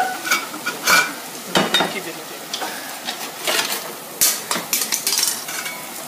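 Salmon sizzling in a frying pan, with a utensil knocking and scraping against the cookware about eight times.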